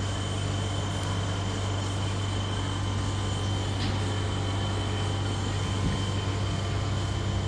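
Ferrari engine idling: a steady low drone with no revving.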